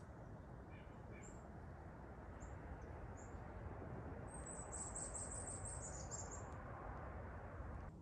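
Small songbird's thin, very high calls: scattered single chirps, then a rapid run of high notes about four seconds in lasting some two seconds, over a steady rushing forest background.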